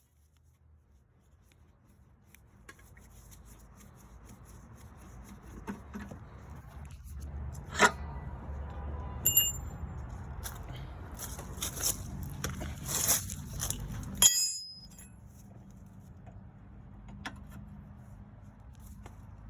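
Metal clinks, scrapes and a few sharp ringing clanks of tools and metal parts being handled. Underneath is a low steady rumble, which drops suddenly after the loudest clank.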